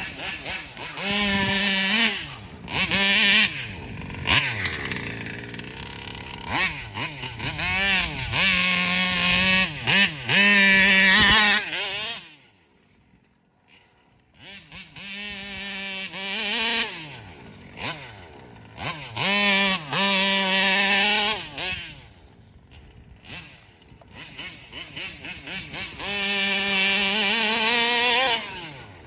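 Gas RC car's Taylor 35 cc reed-valve two-stroke engine revving hard in repeated full-throttle bursts, its pitch climbing in each burst before falling back to a low idle. It goes almost silent for a second or two about halfway through.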